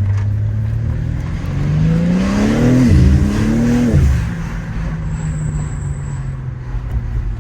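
BMW G80 M3's twin-turbo straight-six revving hard under a steady rumble: the pitch climbs, drops sharply about three seconds in, climbs again and falls away near four seconds. The car is being driven hard.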